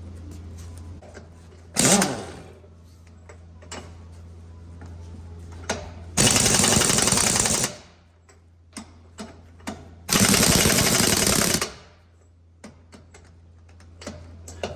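1-inch impact wrench hammering lug nuts tight on a 19.5-inch dump truck wheel, in two bursts of about a second and a half each, with a shorter burst and a few clicks earlier.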